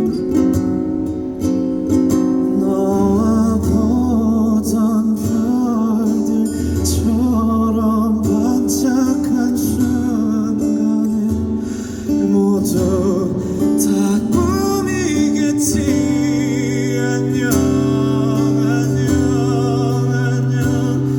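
Live band music with acoustic guitar strumming under a wavering, sustained melody line, in an instrumental stretch of a ballad.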